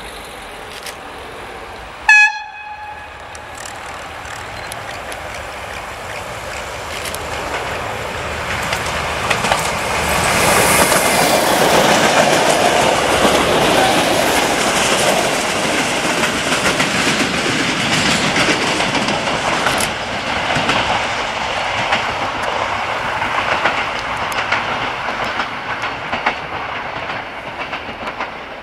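A TFG diesel multiple unit sounds one short horn blast about two seconds in. It then runs past close by, wheels clicking over the rail joints, the noise building to its loudest around ten to sixteen seconds and slowly easing off.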